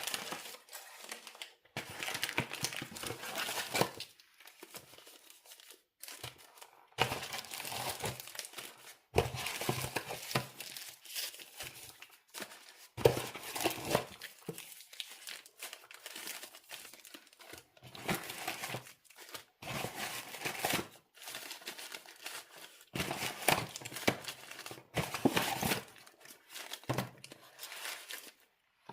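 Packaging being crinkled and torn open by hand, in repeated irregular bursts of crackling rustle with short pauses between them.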